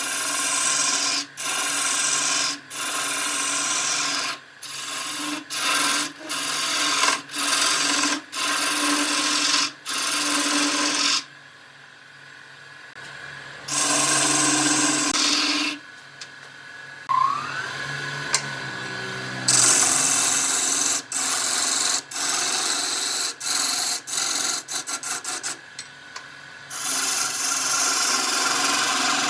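Wood lathe at work, a tool or abrasive rubbing and scraping against the spinning wood in short stretches with abrupt breaks between them. A whine rises in pitch a little past the middle.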